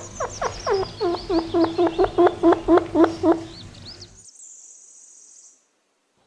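Chinchilla calling: a rapid run of short squeaky barks, each dropping in pitch, about four a second. They fade out about four seconds in.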